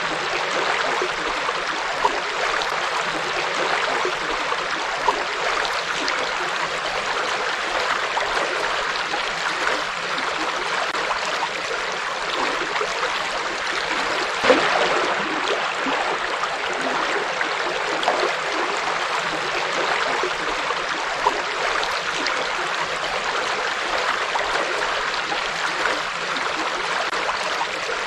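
River water flowing in a steady, continuous rush, with a few brief louder splashes.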